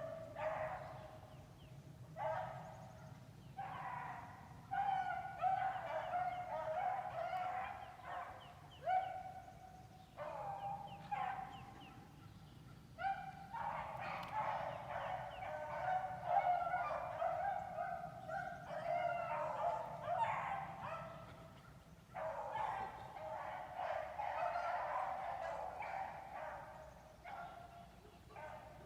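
A pack of dogs baying and bawling on a rabbit's trail, several voices overlapping in long, wavering calls that come and go with short gaps. This is a pack in full cry, running the rabbit.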